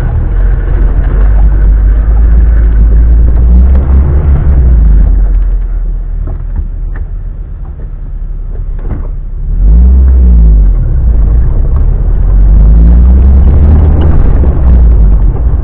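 Off-road car driving over a rough dirt track: the engine runs with a heavy low rumble, eases off in the middle, then picks up again about nine and a half seconds in with a couple of short revs.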